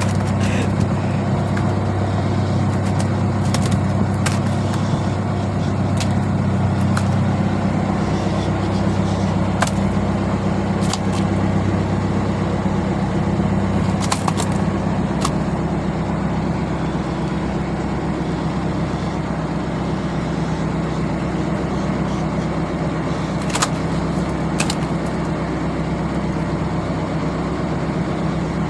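Fishing boat engine running steadily with a deep hum; the lower part of the hum drops away about seven seconds in while the engine keeps running. A few sharp knocks sound on top.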